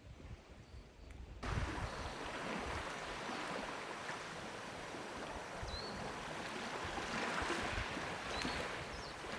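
Steady outdoor rushing noise, like wind or flowing water, that starts abruptly about a second and a half in, with a few faint high bird chirps later on.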